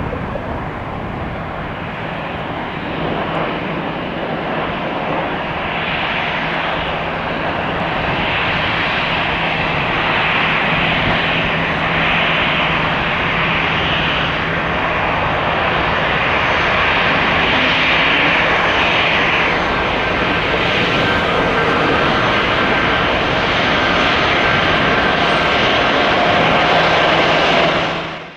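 Jet airliner engines running: a steady, loud engine noise that grows slowly louder, with a faint high whine joining about two-thirds of the way through. It cuts off abruptly at the very end.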